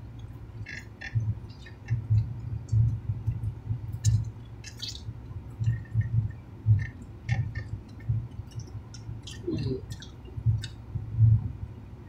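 Close-up chewing and mouth smacking of people eating, a sandwich among the food: irregular soft low thuds with many short wet clicks.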